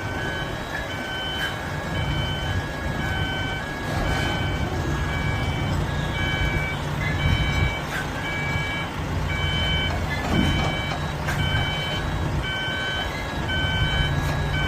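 A vehicle's reversing alarm beeps steadily in short, evenly spaced high tones over the low running of an engine. A few sharp knocks come through about four seconds in, eight seconds in and eleven seconds in.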